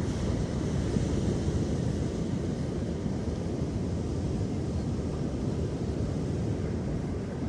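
Steady low rumble of ocean surf mixed with wind buffeting the microphone, with a little more hiss in the first second or so.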